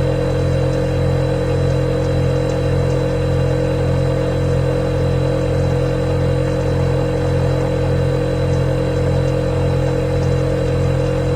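Refrigerator running: a steady, loud mechanical hum with a low drone and a clear higher tone held above it.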